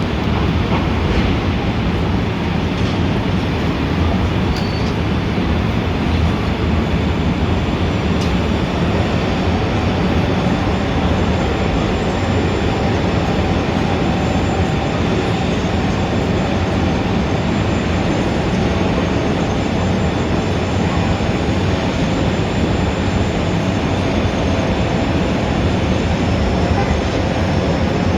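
Steady, loud rumble of dense city traffic with a continuous hiss. The low rumble is heaviest, and a faint brief high tone sounds about five seconds in.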